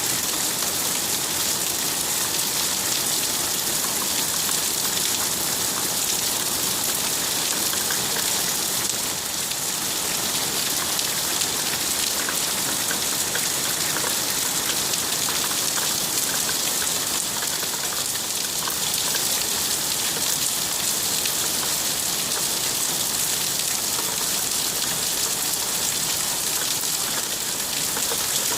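Steady rain falling: an even hiss that keeps up at the same level throughout, with faint taps of individual drops scattered through it.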